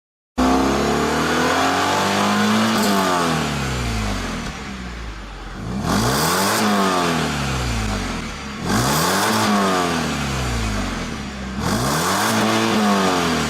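BMW 3 Series engine heard through its aftermarket exhaust, revved up and let fall back four times; the first climb is slow, the others quicker.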